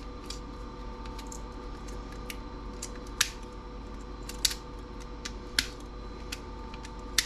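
Irregular sharp clicks of small metal and plastic parts being handled and snipped while a CRT's copper-wound deflection yoke is pulled apart for scrap, over a steady electrical hum.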